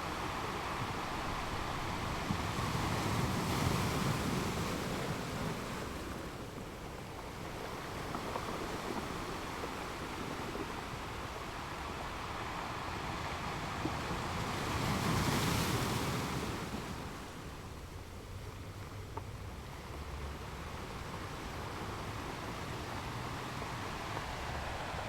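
Steady rushing of wind and sea at sea, swelling louder twice, about three seconds in and again about fifteen seconds in.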